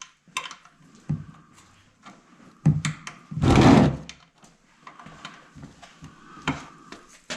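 Scattered knocks, clicks and clunks of tools and parts being handled while working on a motorcycle, with one louder scraping rush lasting under a second about three and a half seconds in.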